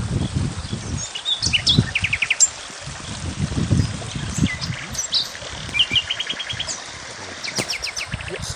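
Small songbirds chirping and calling, with two short rapid trills of evenly spaced notes, one about two seconds in and another about six seconds in. Irregular low rumbles and thumps run underneath.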